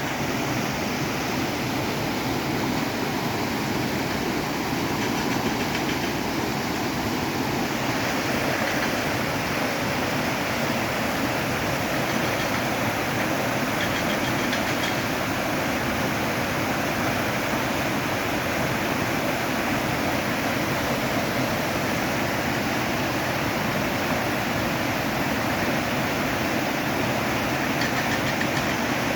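River water flowing, a steady, unbroken rushing noise.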